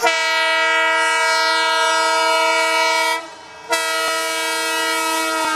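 A train's air horn sounding a chord of several notes in two long blasts: the first lasts about three seconds, then after a short break the second begins and holds steady.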